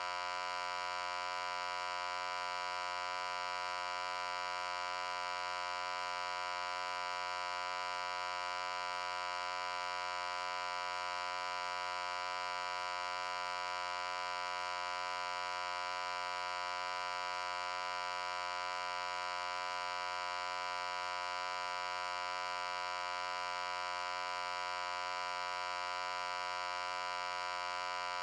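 A loud, steady electric-sounding hum, a buzzy tone with many evenly spaced overtones that does not change in pitch or level.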